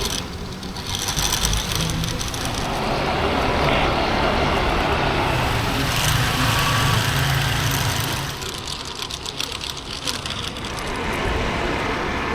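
Strong wind gusting, buffeting the microphone with a low rumble that swells and eases.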